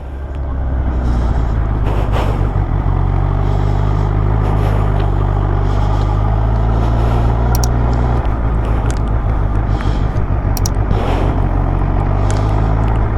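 Motorcycle engine running steadily at cruising speed, with wind rushing past the helmet microphone; the engine note shifts slightly about eight seconds in.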